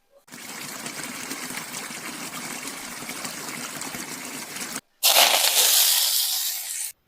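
Rushing water in two cut-together clips: a steady flow for about four and a half seconds, then a louder, hissier gush for about two seconds; each stops abruptly.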